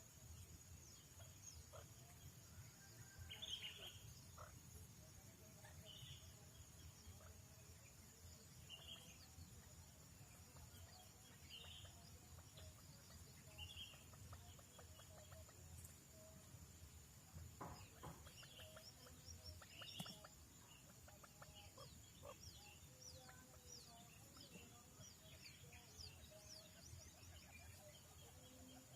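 Faint high chirps of buttonquail chicks, repeating every two to three seconds, over a steady high insect drone.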